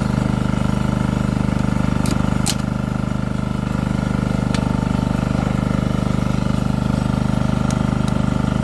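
An engine running steadily at a constant speed, a continuous drone with a fast even beat. A few short, sharp knocks cut through it, at about two seconds in, just after, and again near the middle and near the end.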